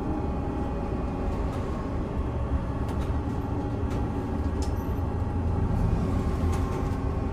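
Cabin noise of a VMZ Avangard trolleybus in motion: a steady low rumble with a faint steady whine and scattered light rattles and clicks.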